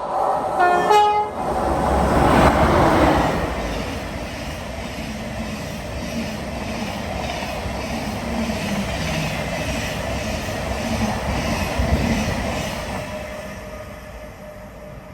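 Train sounding its horn briefly about a second in, then running with a loud rush and a steady rattle of wheels on the rails that fades toward the end.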